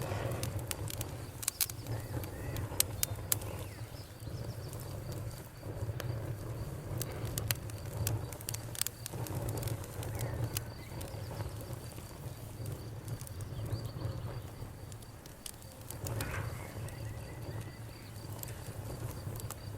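Bonfire crackling, with frequent sharp pops over a low, steady rumble of the flames. Crickets chirp faintly and steadily high in the background.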